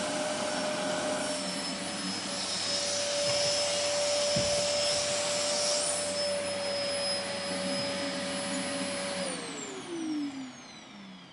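Vacuum cleaner running steadily: a dense airy hiss with a steady motor whine. About nine seconds in it is switched off, and the whine falls in pitch as the motor winds down.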